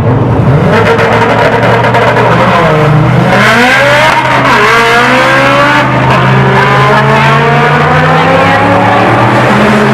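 Drag car engine running hard and revving; its pitch sweeps sharply up about three seconds in, then keeps climbing slowly.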